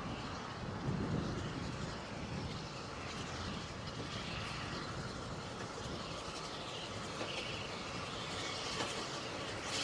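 A train running along the track: a steady rolling noise with a few light clicks from the wheels.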